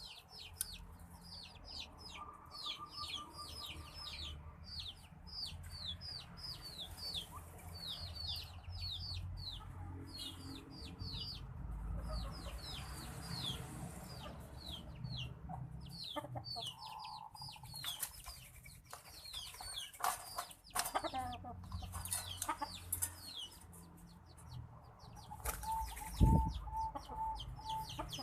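Aviary bird sounds: a rapid run of high, downward-sliding chirps continues throughout. Partway through come a cluster of splashes and wing flaps from a white-breasted waterhen bathing, and near the end there is a short series of about six low, evenly spaced clucking notes.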